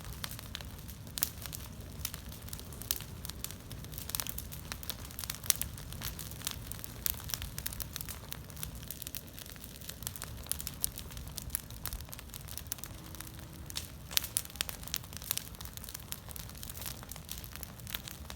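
Bonfire of fallen leaves burning, with irregular sharp crackles and snaps over a low steady rumble.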